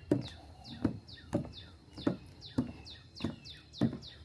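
Footsteps on a wooden boardwalk at a steady walking pace, with a bird repeating short chirps that fall in pitch.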